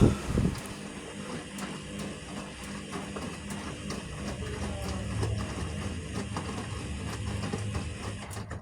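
Vestel CM8710 8 kg front-loading washing machine running its final rinse: the motor hums steadily as the drum turns, with a continuous light clicking and rattling. There is a loud knock at the very start, and the sound cuts off abruptly near the end.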